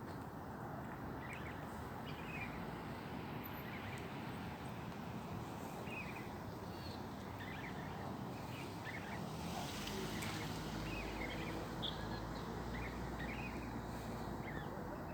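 Small birds chirping in short, scattered calls over a steady low background hum, which swells a little about two-thirds of the way through.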